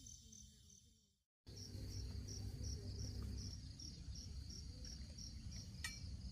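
An insect, cricket-like, chirping in even pulses about two and a half times a second over a low outdoor rumble. The sound fades out and drops to silence about a second in, then the chirping starts again.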